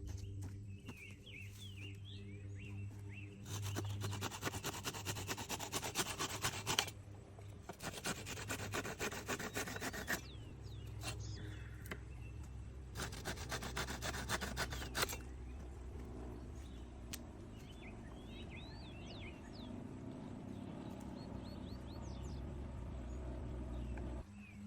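Wood being rasped by hand in three spells of rapid back-and-forth strokes, as in sawing or rubbing wood, over a low steady hum, with short bird or insect chirps between the spells.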